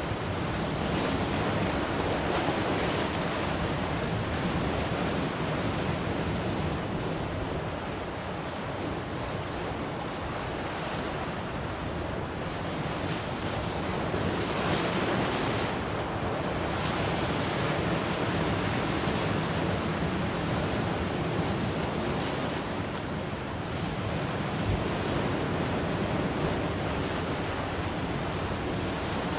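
Ocean surf: waves breaking and washing in as a continuous rushing noise that swells and eases every several seconds.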